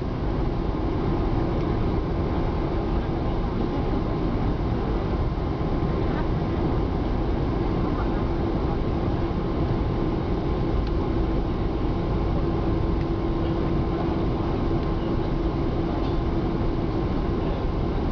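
Boeing 747 cabin noise during landing: a steady rumble of engines and airflow with a constant hum, heard from inside the passenger cabin.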